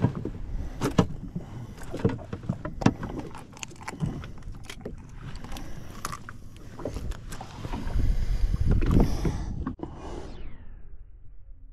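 Irregular knocks and clunks aboard a fishing jetski over wind and water noise, with a louder low rush about eight seconds in; the hiss fades away near the end.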